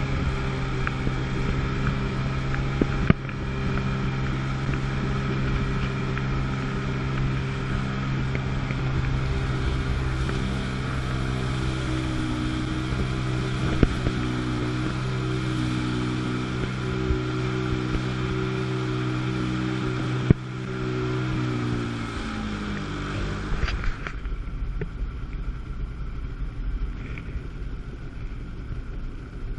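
Two-stroke jet ski engine running at a steady speed. About 21 seconds in its pitch slides down and it settles to a lower, rougher note as the throttle comes off. A few sharp clicks sound along the way.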